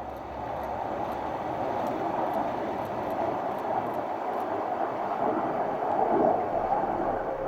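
Fighter jet passing overhead: a steady rushing jet noise that grows gradually louder.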